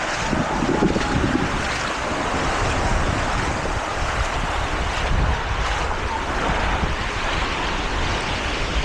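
Waves washing on a beach, with wind buffeting the microphone in a steady low rumble.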